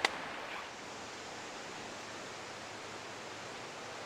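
Steady rushing of river rapids, with one sharp click right at the start.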